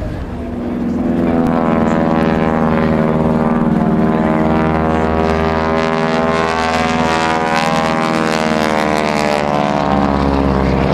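Propeller-driven airplane's piston engine droning past, its pitch rising slightly and then sinking toward the end.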